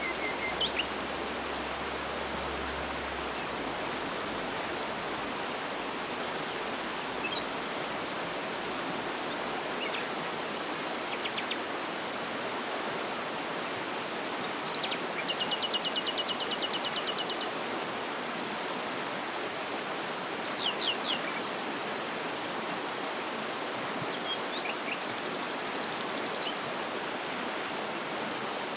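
Steady rushing of a waterfall, with birds calling over it: scattered short chirps and, about fifteen seconds in, a rapid trill lasting about two seconds.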